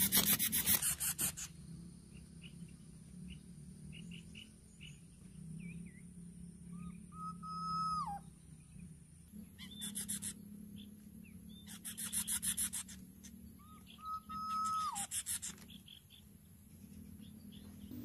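Short bursts of fast, dry rasping, four times, and twice a clear whistled bird note held level then dropping away, over a low steady hum.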